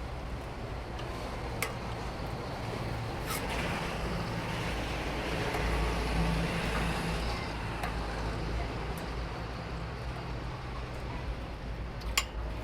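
Road traffic: a motor vehicle's low engine hum swells and fades over steady traffic noise, with a few sharp knocks, the loudest near the end.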